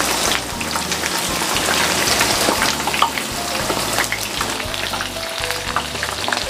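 Tofu cubes frying in hot oil in a wok, a steady sizzle with many small pops and crackles, while the pieces are turned over to brown on their second side.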